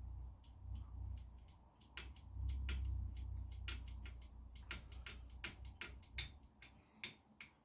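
Light metallic clicks and taps as the top cap of an upside-down motorcycle fork is unscrewed, with a quicker run of clicks between about four and six seconds in, over a low handling rumble that dies away near the end.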